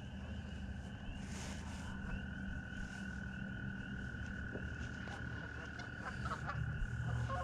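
A chorus of frogs calling, one steady high trill standing out over the others, with a few small clicks near the end.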